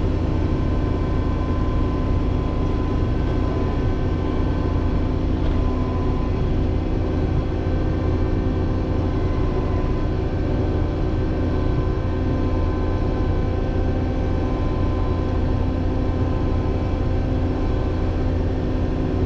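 A large diesel engine on farm machinery running steadily at a constant speed: an even low drone with a steady whine over it.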